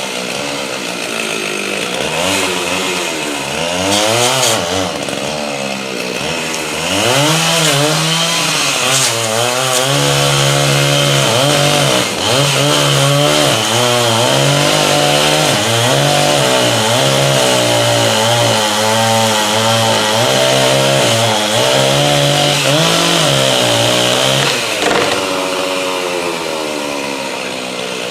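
Two-stroke Stihl chainsaw running and cutting wood, its engine pitch rising and falling again and again as it is revved and loaded in the cut.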